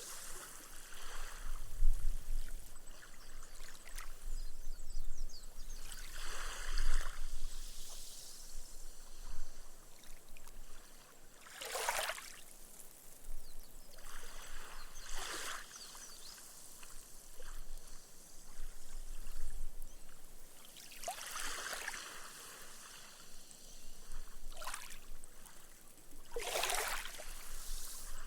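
Small, gentle waves lapping on a sandy beach, each one washing in with a soft splash and fizzing away into foam as the water soaks into the sand, a new surge every few seconds.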